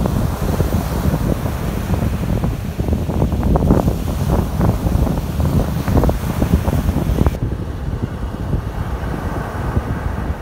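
Strong wind buffeting the microphone in a heavy low rumble, over the hiss and splash of small surf waves breaking on a shallow sea shore. A little over seven seconds in, the high hiss of the water drops away suddenly and the wind rumble carries on.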